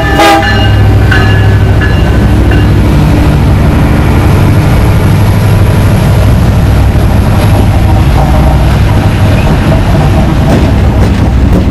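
A diesel locomotive's horn cuts off about half a second in. Then a train passes close with a loud, steady rumble.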